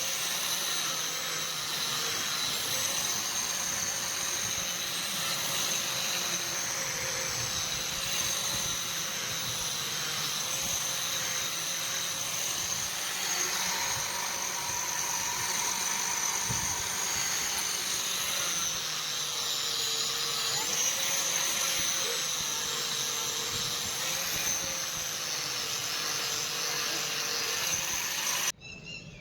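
Electric power tool motor running steadily with a high whine whose pitch wavers slightly, cutting off abruptly near the end.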